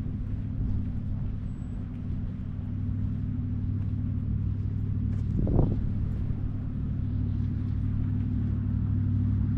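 A steady low rumble, with a single brief thump about five and a half seconds in.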